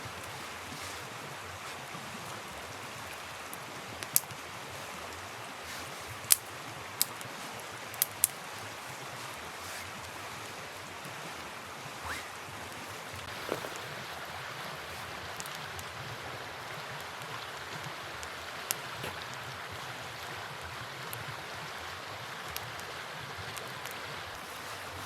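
Campfire crackling, with sharp wood pops every second or few and some quieter ones in between, over a steady rush of flowing river water.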